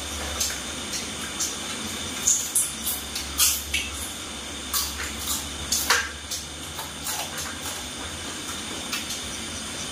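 Grasshoppers frying in hot oil: a steady sizzle with scattered pops and crackles.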